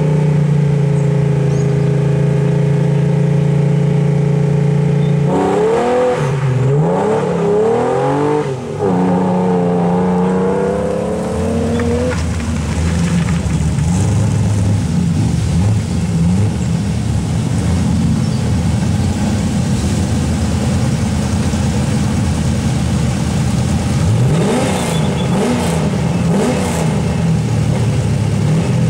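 Ford Capri 3.0's V6 engine held at steady revs on the start line, then launching about five seconds in and accelerating away through several gear changes, its note fading by about twelve seconds. After that another car's engine idles at the line, with a few short revs near the end.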